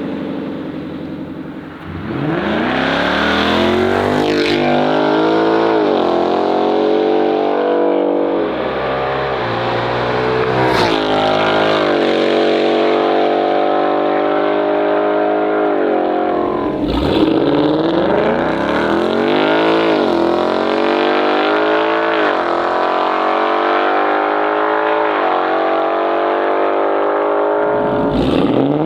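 Ford S650 Mustang GT's 5.0-litre V8 through an AWE stainless catback exhaust, accelerating hard through the gears. The pitch climbs, drops at each shift and climbs again, several times over.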